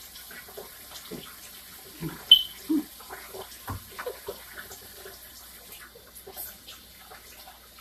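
Kitchen handling sounds: scattered light clicks and knocks of food and utensils being moved about, with a sharp click a little over two seconds in.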